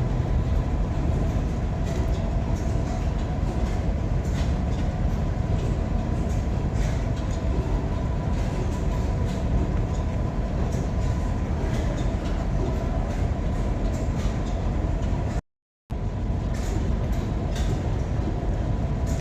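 A vintage engine running steadily: a continuous low rumble with a faint steady whine and light irregular clicks. The sound cuts out completely for about half a second roughly fifteen seconds in.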